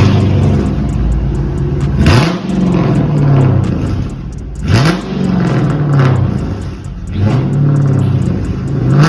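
Dodge Charger R/T's 5.7-litre Hemi V8 on a full straight-pipe exhaust with no mufflers, resonators or cats. It is loud, starting up right at the beginning and then revved with four quick throttle blips about two and a half seconds apart, each rising and falling back to idle.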